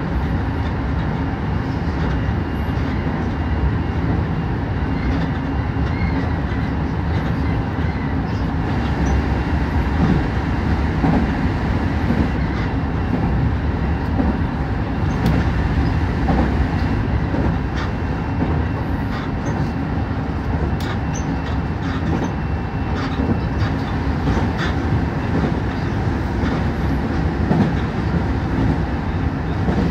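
Nankai 8000-series electric train running along the line, heard from just behind the driver's cab: a steady rumble of wheels on rail with scattered short clicks.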